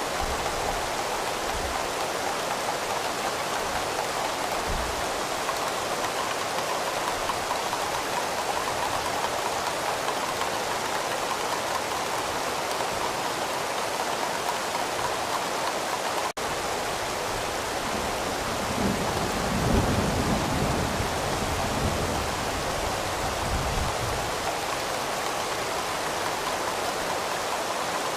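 Steady, heavy rain falling, an even hiss with a low rumble swelling a little past the middle. The sound drops out for an instant just after halfway.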